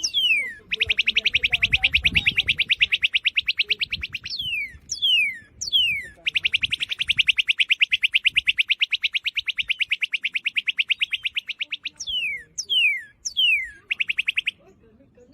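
A bird singing: clear down-slurred whistles repeated about twice a second, alternating with long, very fast trills, the longest running about six seconds.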